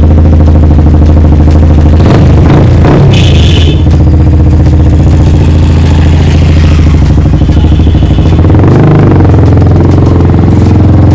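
Yamaha R15 V3's single-cylinder engine running loudly through a full-system bend pipe and aftermarket slip-on muffler, idling with a few quick blips of the throttle.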